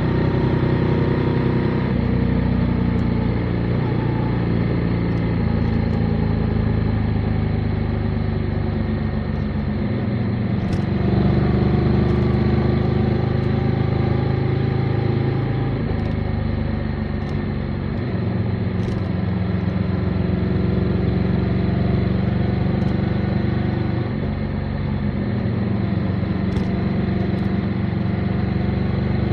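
Motorcycle engine running under way, heard on the bike along with road and wind noise. The engine note steps to a new pitch a few times, about ten, sixteen and twenty-four seconds in, as the revs change.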